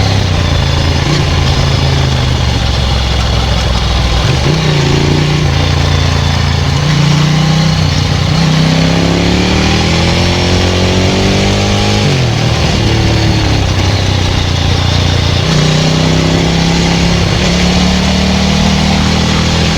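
Ducati 900SL's air-cooled L-twin engine running through a Termignoni full exhaust under way. The engine note holds, then climbs over several seconds and drops sharply about twelve seconds in, before settling and rising again.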